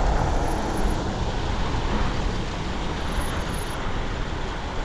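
Steady rush of wind over the microphone and tyre and road noise from a Rad Power electric bike riding along a road, with a heavy low rumble.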